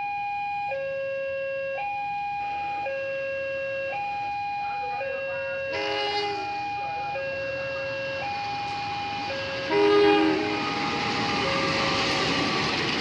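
Level crossing warning alarm sounding its two alternating tones, each held for about a second. A train horn sounds briefly about six seconds in and louder near ten seconds, and the noise of the approaching train then builds.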